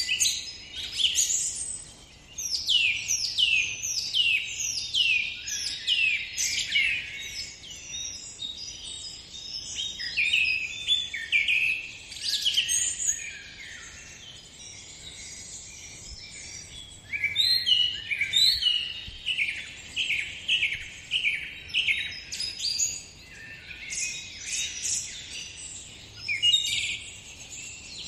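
Birdsong: several small birds singing and chirping in quick series of falling notes, with a brief lull partway through.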